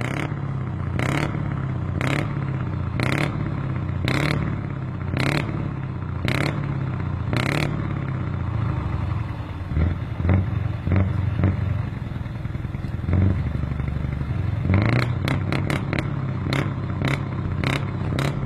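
Scania truck's diesel engine running, with a sharp clatter about once a second for the first seven seconds or so and a run of quicker clicks near the end.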